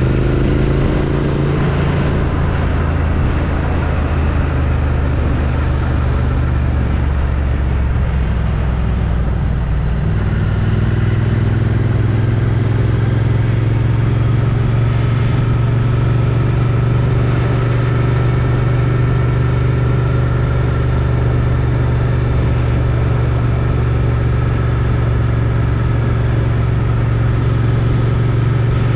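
Triumph Street Twin's 900 cc parallel-twin engine on its stock exhaust, running steadily under way with wind rush over the helmet-mounted microphone. About ten seconds in, the engine note steps up to a higher pitch and then holds steady.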